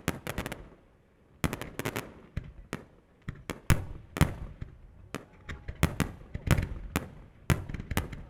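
Starmine fireworks barrage: aerial shells bursting in quick succession with sharp bangs. There is a short lull about a second in, then bursts come every half second or so.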